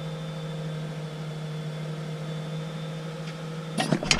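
Toyota Sienna's 3.0L V6 idling steadily, running again after its fuel pump was replaced. Rattling and clicks start near the end.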